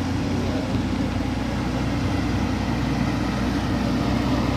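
Heavy engine running steadily at a low pitch, most likely a truck or road-works machine.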